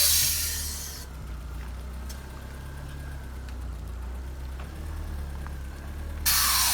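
Air suspension on a lowered VW Saveiro pickup hissing loudly as air is let out, stopping about a second in; under it the engine idles with a steady low hum, and another loud hiss of air starts near the end.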